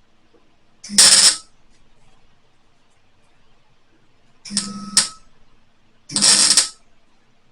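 Three short bursts of welding, each about half a second long and crackling over a low buzz, as a welder tacks shut pinholes in a freshly welded sheet-metal rust repair patch.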